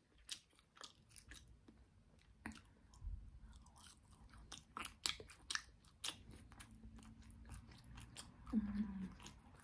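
Close-miked mouth sounds of a person chewing food: an irregular run of small wet clicks and smacks, with a short low hum near the end.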